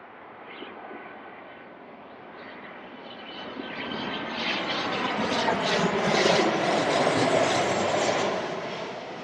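Boeing 737 jet engines passing close by on landing, growing louder to a peak about six to eight seconds in, then fading, with the engine whine gliding down in pitch as it goes past.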